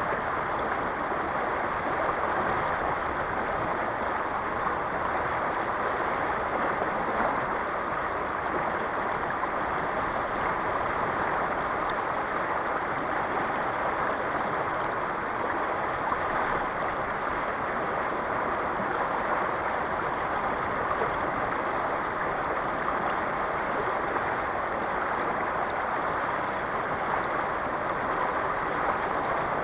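Fast-flowing river current rushing steadily, a constant even noise of water.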